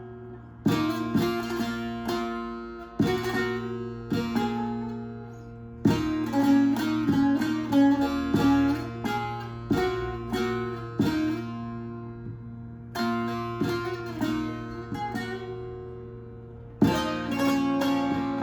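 Bağlama, tuned to C (Do), played solo in zeybek style: runs of plucked notes in slow phrases, with the notes ringing on between strikes and brief pauses between phrases.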